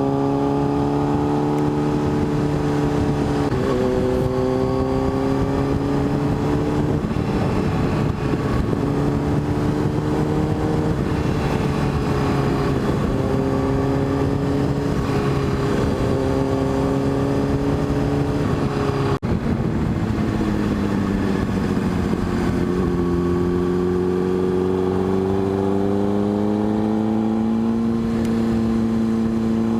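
600cc motorcycle engine running under way, its pitch rising and falling with throttle and gear changes; near the end it climbs steadily as the bike accelerates.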